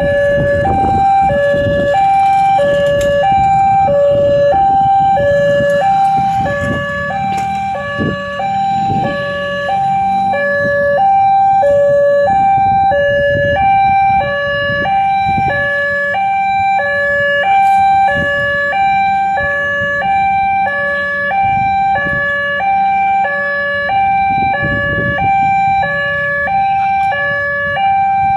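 Railway level-crossing warning alarm sounding a steady two-tone hi-lo signal, alternating about twice a second, warning that a train is approaching. Traffic rumbles underneath.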